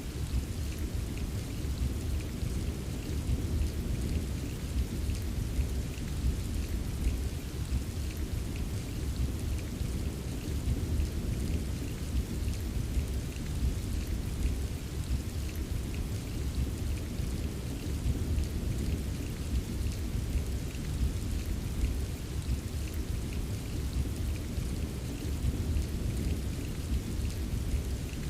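Steady rain ambience: dense pattering of drops over a constant deep low rumble, unchanging throughout.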